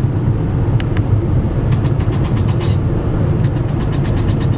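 Car driving along a road: a steady low rumble of engine and road noise, with two short runs of light rapid ticks.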